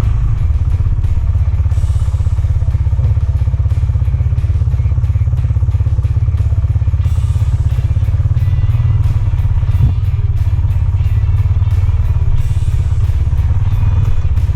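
Dual-sport motorcycle engine running steadily close to the microphone, a loud, fast, even pulsing low in pitch, with a single knock a little before ten seconds in.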